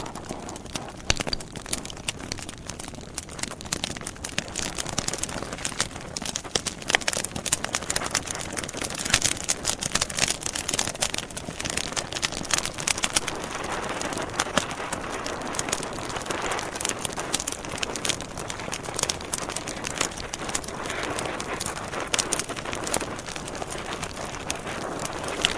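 Outdoor wood campfire burning, with many sharp crackles and pops over the steady hiss of the flames.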